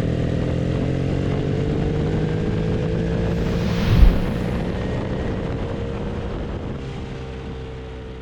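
BMW R 1300 GS Adventure's boxer-twin engine running through a Jekill & Hyde Nomad S valved exhaust, a steady motorcycle drone with a brief thump about four seconds in, then slowly fading.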